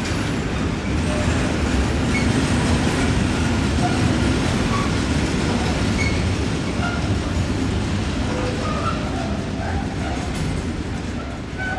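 Freight train of curtain-sided wagons rolling past: a steady rumble and rattle of wheels on the rails, with short high squeaks here and there. It eases slightly near the end as the last wagons go by.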